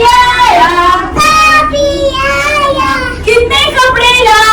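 A child singing a nursery rhyme, with held notes that step and glide in pitch.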